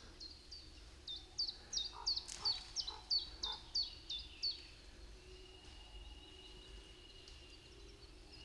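A small songbird singing a quick series of repeated high notes, about two a second, for several seconds before stopping; a faint thin steady whistle follows near the end.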